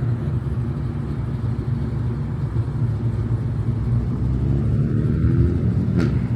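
BMW M340 engine running under way with road rumble, its pitch climbing gently about two-thirds of the way through. A single sharp click comes near the end.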